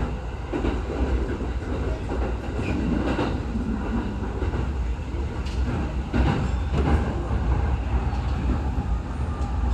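TWR 70-000 series electric train running, heard inside the car: a steady low rumble with wheel clacks as it crosses over to another track.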